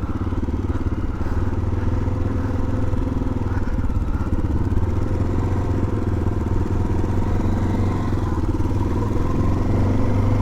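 Motorcycle engine running steadily at low speed, with no revving.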